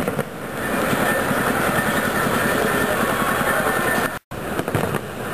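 A long string of firecrackers going off in rapid, continuous crackling pops, with a momentary break in the sound about four seconds in.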